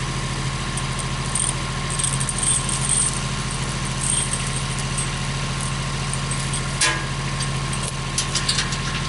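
Engine idling steadily, with short high squeaks over it in the first half, a sharp knock about seven seconds in, and a run of light clinks near the end.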